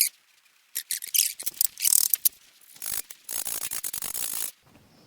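Metal-on-metal ratcheting and scraping as a broken cylinder-head stud remnant is worked out of a Ford flathead V8 block by a welded-on nut. Irregular short scrapes and clicks are followed, a little after three seconds in, by a faster rasping run of about a second.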